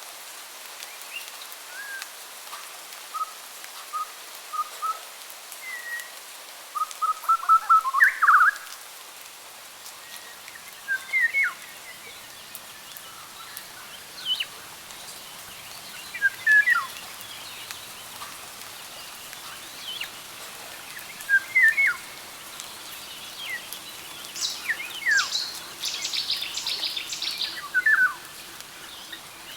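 Songbirds singing and calling: short whistled notes and quick down-slurred chirps, with a fast trill of notes about eight seconds in and a cluster of high chirps near the end, over a steady background hiss.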